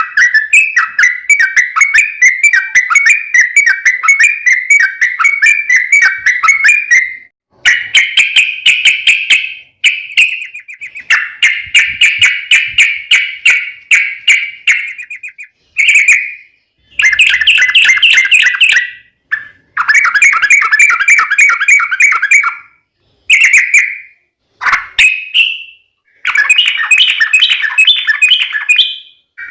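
Yellow-vented bulbul (trucukan) song: long, rapid rolling runs of repeated chattering notes, broken by short pauses every few seconds.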